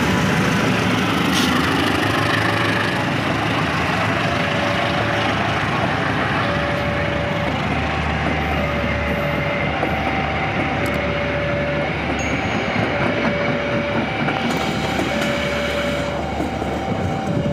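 A CC201 diesel-electric locomotive and its passenger coaches rolling past close by: a steady loud rumble of engine and wheels on rail. Over it sounds an electronic two-tone warning signal, alternating between a lower and a higher tone about once a second.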